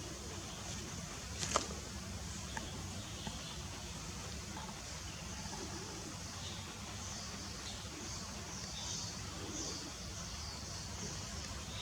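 Steady low wind rumble. One sharp click comes about a second and a half in, and a run of short, high chirps fills the second half.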